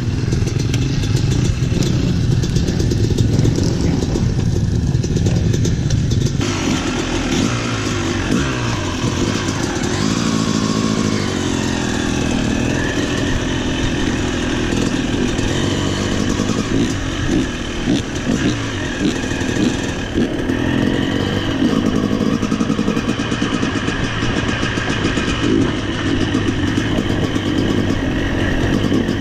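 Dirt bike engine running hard as the bike is ridden on a motocross track, its note rising and falling with the throttle and changing character a few times as the rider works through gears and terrain.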